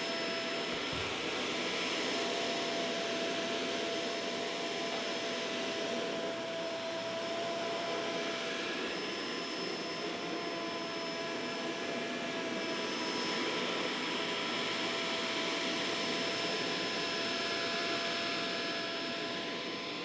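Kenmore Intuition upright vacuum cleaner running steadily on carpet: a constant motor whine with a few fixed tones over a rush of air.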